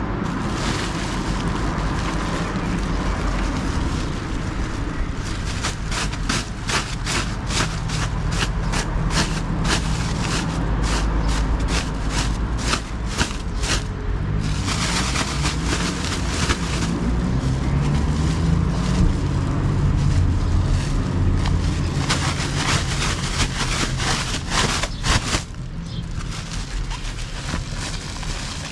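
Wind rumbling on the microphone, with two long runs of rustling and crackling as a bag and clothes are handled: one from about six to fourteen seconds in, and another shorter one near the end.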